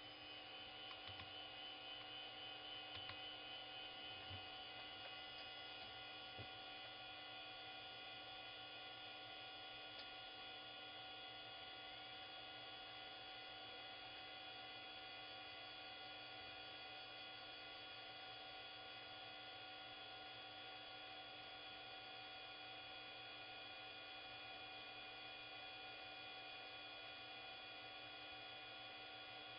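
Faint steady electrical hum and whine made of several steady tones, with a few faint clicks in the first few seconds.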